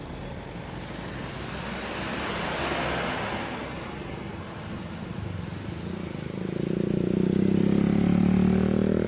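A vehicle passing on the road, its noise swelling and fading about three seconds in, then a heavy engine growing loud from about six and a half seconds in and running steadily.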